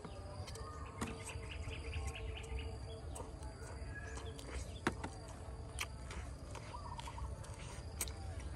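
Person chewing and biting kernels off a roasted corn cob, with a few sharp mouth clicks, while birds chirp and insects sing steadily in the background; a quick run of chirps comes about a second in.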